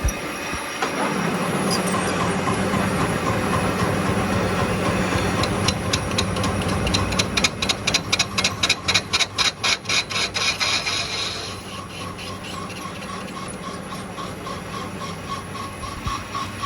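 Metalworking machinery running in a workshop, with a steady low hum. In the middle it makes a fast rhythmic run of sharp scraping strokes, about four a second, for several seconds, then settles to a fainter regular ticking.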